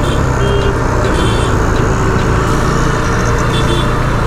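KTM RC 390's single-cylinder engine running steadily at low speed in slow city traffic, under the noise of the surrounding vehicles. A few short high-pitched beeps come from the traffic.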